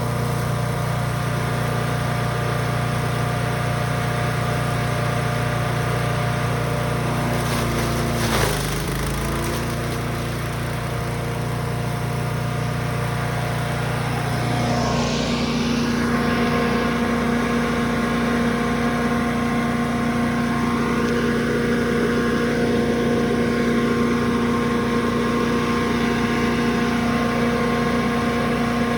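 Brush Master 3-in-1 chipper/shredder's gas engine running steadily. About eight seconds in its pitch dips briefly and recovers, and around the middle its note changes and then holds.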